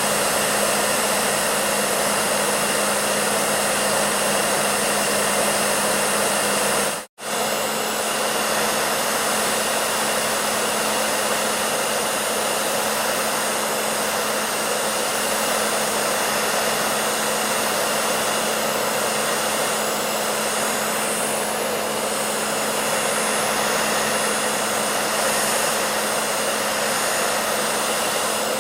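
Electric hair dryer running steadily: an even rush of blown air with a low motor hum. It cuts out for an instant about seven seconds in and comes straight back.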